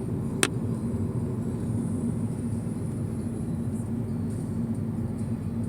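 Car running along a road, a steady low rumble of engine and tyre noise, with one sharp click about half a second in.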